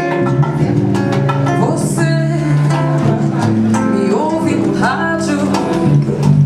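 Acoustic guitar playing an instrumental passage of a song, plucked and strummed chords with a bass line.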